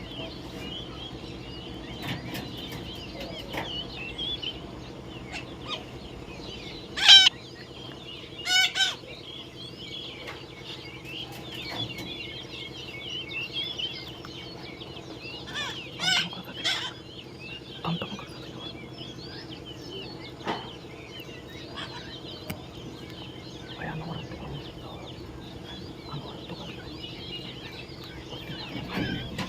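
Parrots chattering steadily with high calls, broken by loud harsh squawks: two about seven and nine seconds in, and two more about halfway through.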